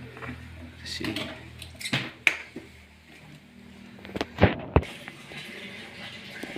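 A few sharp knocks and clatters of hard parts being handled while working on a twin-tub washing machine, two near two seconds in and a louder close pair a little after four seconds, over a low steady hum that fades out about two seconds in.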